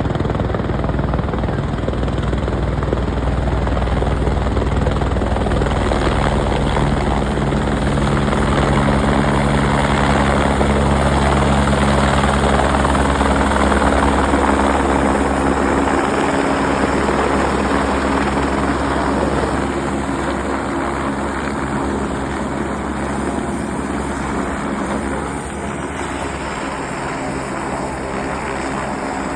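Helicopter rotor and engine running steadily as it comes in to land, with a heavy low rumble and a stack of steady engine tones. The pitch of the tones shifts about halfway through, and the sound eases a little in the last third.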